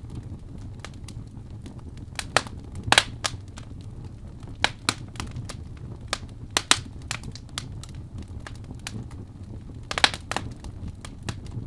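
Wood fire burning in a fireplace: a steady low rumble of flame with irregular crackles and scattered sharp pops. The loudest pops come about three seconds in and about ten seconds in.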